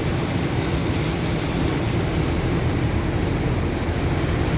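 Steady noise inside a truck's cab driving through a heavy downpour: rain beating on the truck over the low rumble of the engine and the tyres pushing through standing water.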